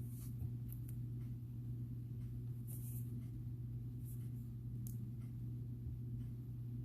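Faint light rustling and small ticks from beads and bracelet cord being handled, a handful of times, over a steady low hum.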